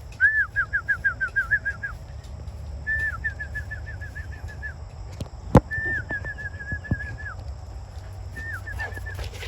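A small bird singing the same phrase four times: a held note, then a quick run of short, slightly falling chirps lasting a second or two. A single sharp click sounds about halfway through.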